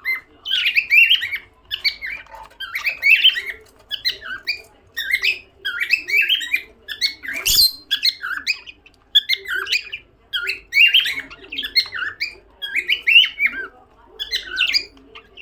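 Pet cockatiel whistling its favourite tune: a string of short, chirpy, warbling whistled phrases repeated about once a second. There is one sharp click about halfway through.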